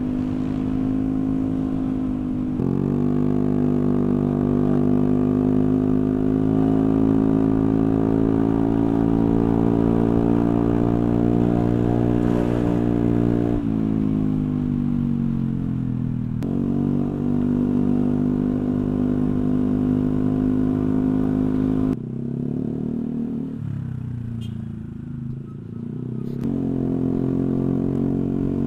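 Honda Vario 125 scooter's single-cylinder four-stroke engine through a CLD C3 oval racing exhaust with the dB killer baffle removed. It is revved up and held at steady raised speeds, eased down in steps, then dropped back to a low idle with a falling pitch before being revved up again near the end.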